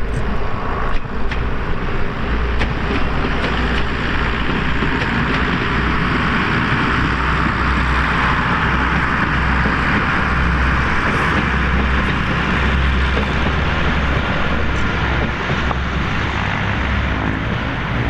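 A heritage train running, with a steady rushing noise over a low rumble and a few sharp clicks in the first couple of seconds.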